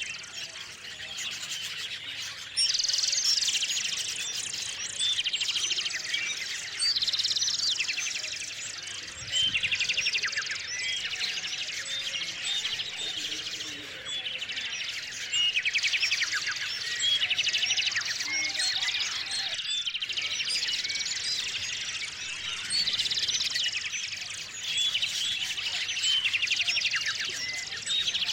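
Small songbirds at a feeder, singing and chirping: short trilled songs come every two to three seconds, with scattered high chirps between them.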